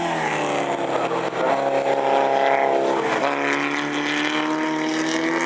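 Racing sports cars' engines going past one after another: the first note falls in pitch as a car backs off, then a steady engine note, then another that slowly rises as a car accelerates.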